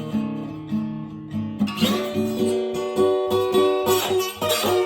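Acoustic guitar playing a blues accompaniment: a steady picked rhythm, growing fuller and busier about two seconds in.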